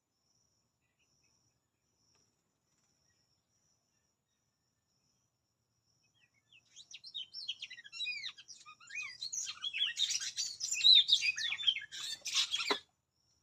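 Birds chirping in quick rising and falling notes. They start about six seconds in, thicken into a dense chatter, then cut off suddenly near the end. Before the birds begin there is only a faint high insect trill.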